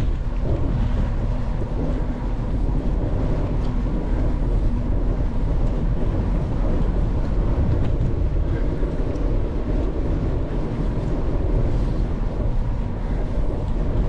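Steady low rumble of wind on the microphone while riding a bicycle along the road.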